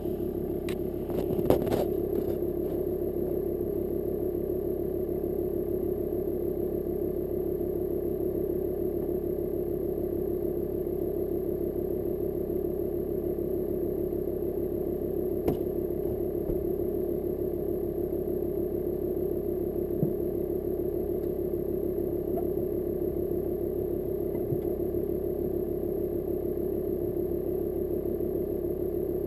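VW Caddy Mk1's 1.6-litre four-cylinder diesel engine running at a steady idle on a cold start after months standing, with a brief louder clatter about a second and a half in.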